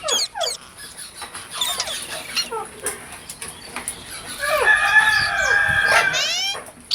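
Green parrots calling: a string of short, sharp squawks sweeping quickly up and down in pitch, then one longer, louder screech from about four and a half to six seconds in.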